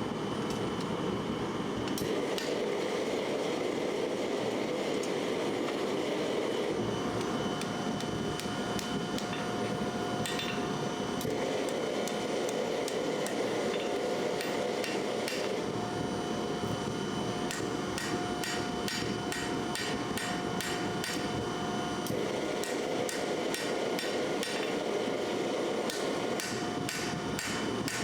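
Hammer blows on steel in blacksmith forging: a few scattered strikes, then steady hammering at about two to three blows a second from about two-thirds of the way through. Underneath is a steady rushing noise.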